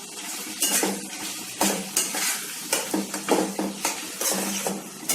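A utensil scraping and stirring around a pan of frying onions, capsicum and sauce, in short irregular strokes over a steady sizzle.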